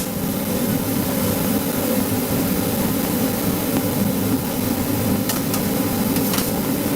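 A steady, loud mechanical drone, with a few light clicks near the end.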